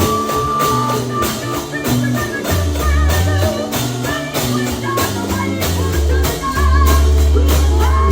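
Live gospel music: a drum kit keeping a steady beat under held bass notes, with voices singing over the band.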